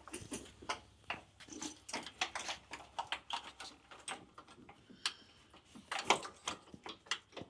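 Light, irregular clicking and tapping of fluid lines and their fittings being handled and pushed back into place on a pickup's front end, with one sharper knock about six seconds in.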